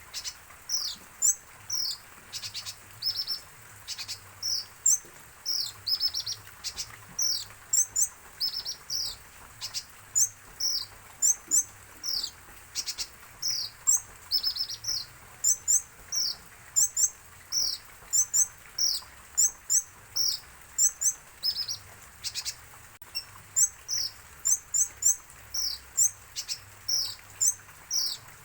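Kolibri ninja sunbird (konin) chirping: an unbroken stream of short, high, mostly falling notes, several a second.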